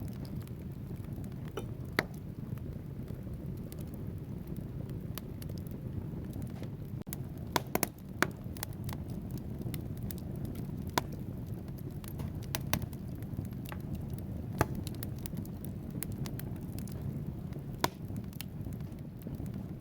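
Wood fire burning in a fireplace: a steady low rush of flame with sharp crackles and pops from the logs every second or two, including a quick cluster of pops about eight seconds in.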